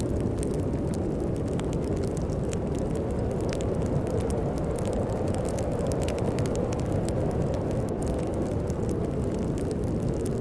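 Fireplace fire crackling with frequent small sharp pops over a steady low rush of snowstorm wind.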